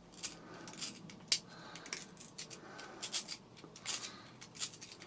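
Knife blade scraping and cutting at hair wound tight around a vacuum cleaner's brush roll: a quick, irregular run of short scratchy strokes with a few sharp clicks.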